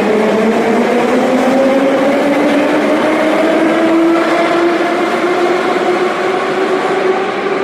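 Moscow Metro train's traction motors whining as it pulls away from the platform, the whine rising steadily in pitch as the train gathers speed.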